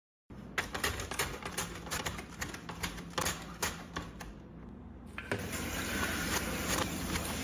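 Kitchen work during cooking: a run of quick, irregular clicks and taps for about four seconds, then a steady hiss that starts about five seconds in.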